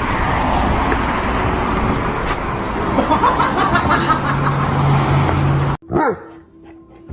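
Loud, steady motor-vehicle noise, a dense rushing sound over a low hum, with a steady low engine-like tone coming in about halfway. It cuts off abruptly near the end, leaving a much quieter stretch with a faint steady tone and a short gliding squeal.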